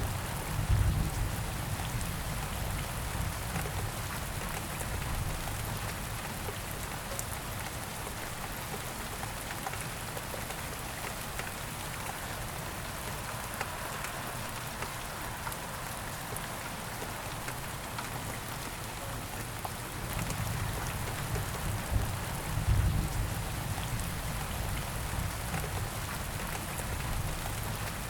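Steady rain falling. A low rumble swells about a second in and again later on.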